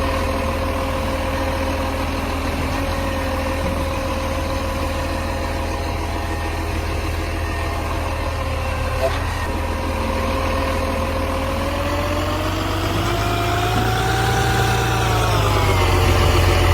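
Garbage truck's diesel engine idling, then revving up about two-thirds of the way in and dropping back near the end.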